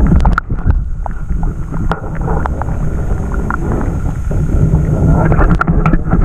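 Wind buffeting the microphone with a heavy low rumble, over moving water and scattered small knocks and clicks.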